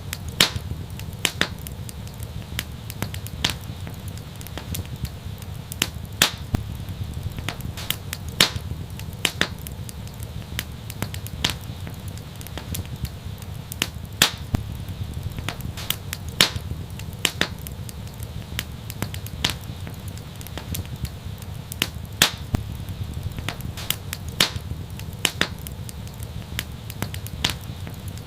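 Wood fire crackling and popping: sharp irregular snaps, several a second, over a steady low rumble of the flames.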